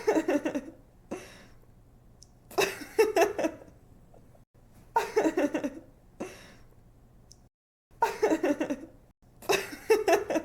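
A young woman laughing in short giggling bursts: five bursts, each about a second long and made of quick breathy pulses, with pauses of one to two seconds between them.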